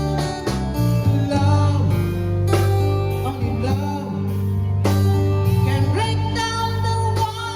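A man singing a song to strummed acoustic guitar, over low sustained bass notes.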